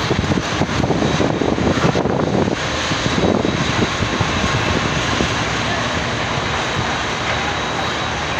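Pakistan Railways passenger coaches of an arriving express train rolling past: a steady rumble, with wheels clattering over rail joints in the first few seconds.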